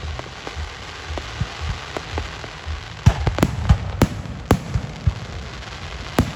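Fireworks bursting: a low rumble with a few small pops at first, then a quick string of loud, sharp bangs from about three seconds in.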